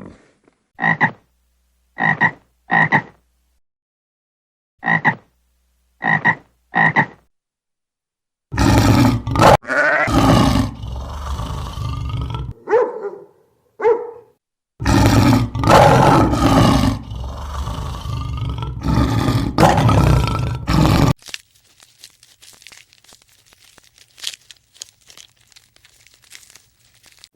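A frog croaking in six short, separate calls. These are followed by about twelve seconds of louder, rough, noisy animal calls, then faint scattered clicks.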